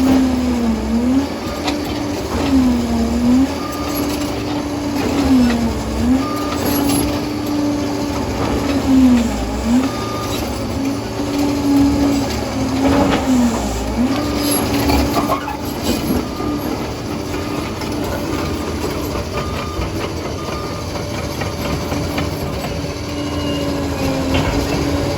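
Liebherr PR 746 crawler dozer at work: a steady engine and drive whine that sags briefly in pitch and recovers every few seconds as the machine takes load, then holds steady for the second half. Scattered metallic knocks and clanks from the tracks and blade run through it.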